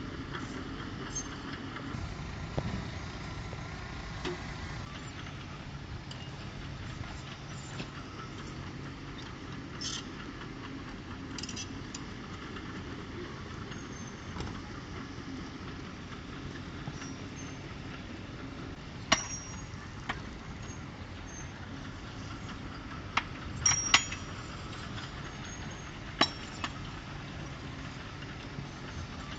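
Diesel engine of a heavy earthmoving machine running steadily, with several sharp metallic clanks in the second half, the loudest a cluster about three-quarters of the way through.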